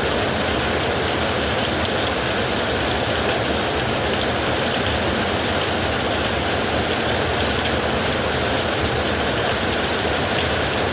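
Heavy rain falling steadily on a roof, an even, unbroken hiss with no thunderclap.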